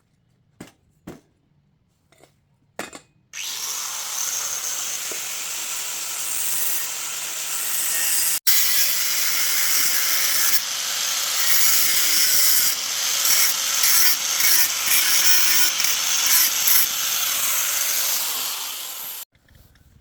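A few light clicks, then a loud, steady abrasive rubbing noise from a tool working on a surface, which runs for about sixteen seconds and breaks off for an instant near the middle.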